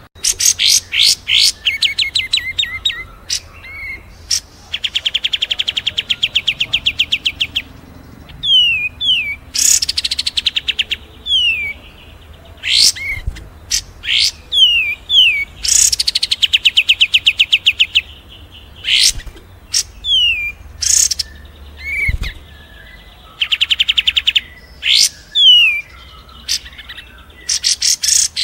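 Songbirds from a cage-bird training (masteran) mix of kapas tembak, cililin and fighting tree sparrow songs singing in quick alternating phrases: short downward-sweeping whistles, fast rattling trills and sharp chirps. A faint low hum runs underneath, with one low thump about three-quarters of the way through.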